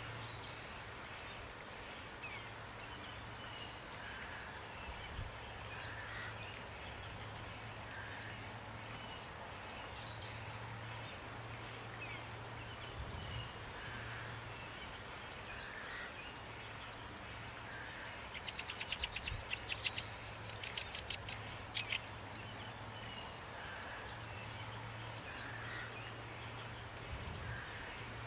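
Steady rain with birds singing: short high chirping phrases repeat throughout, with a softer lower call every couple of seconds. About two-thirds of the way through a rapid rattling trill of quick strokes stands out as the loudest sound.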